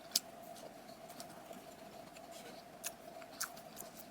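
Quiet eating of a crumbly cheese crumble cookie: scattered faint, crisp ticks and crackles, over a faint steady hum.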